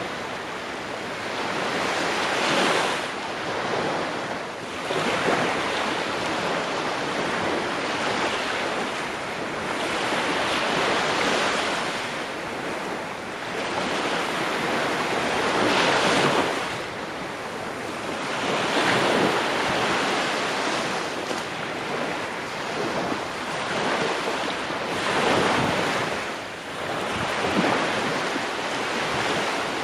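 Ocean waves breaking on the shore, a steady surf wash that swells and eases every few seconds.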